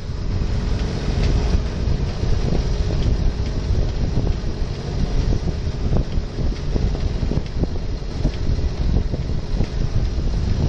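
Wind buffeting the microphone on a sailboat: a loud, fluttering low rumble with the hiss of moving air.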